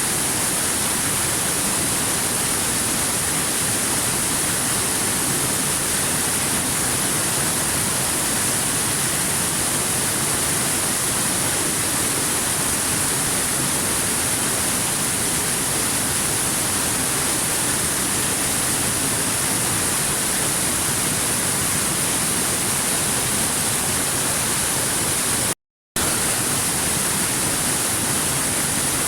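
Waterfall: water falling and rushing in a steady, unbroken hiss with an emphasis on the high end. The sound cuts out to silence for a split second near the end, then resumes at once.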